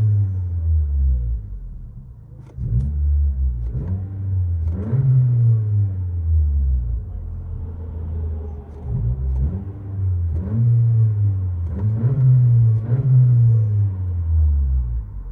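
Honda Accord Sport's 2.0-litre turbocharged four-cylinder, exhaust with the muffler removed, revved in repeated blips from idle, each a deep rising and falling rumble, heard from inside the cabin.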